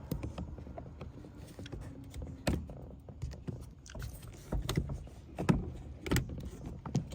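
Hard plastic clicks and knocks, a handful scattered over several seconds, as the interior door handle is worked into place on the door panel.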